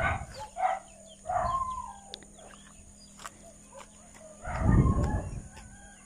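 Birds calling outdoors: a few short chirps and calls, one with a held, falling whistled note about a second and a half in. About four and a half seconds in comes a brief, louder rumbling rush.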